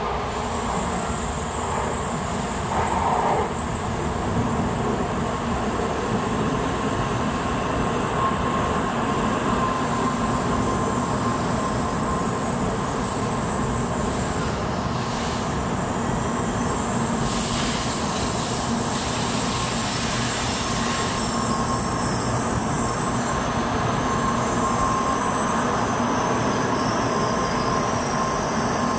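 N700-series Shinkansen train pulling into the platform and slowing to a stop. A steady rolling and braking noise carries a thin, steady high tone.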